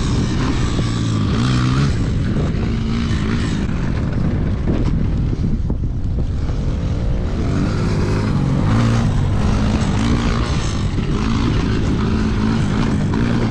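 Small gas pit bike engine revving up and down repeatedly as the bike is ridden around the jumps, with heavy wind rumble on the microphone.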